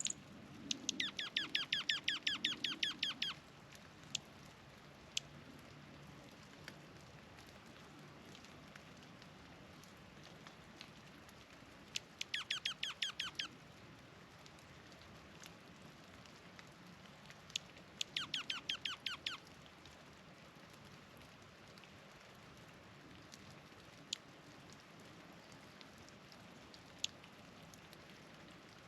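A small songbird singing a rapid trill of quick descending notes, three times, with single sharp call notes in between.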